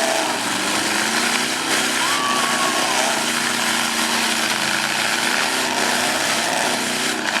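Demolition derby truck engines running and revving over steady loud noise.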